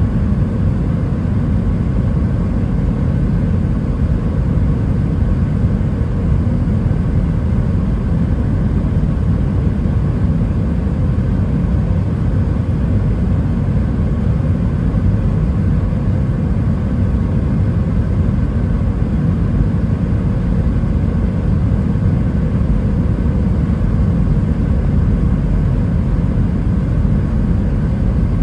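Steady low rumble of engine and airflow noise inside the cabin of an Airbus A320-212 with CFM56 engines, with a few faint steady tones above the rumble.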